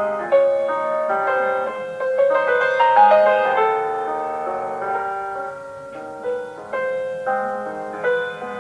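Solo piano playing a slow, tender classical melody, single notes struck and left to ring over held low notes, softening briefly about halfway through before picking up again.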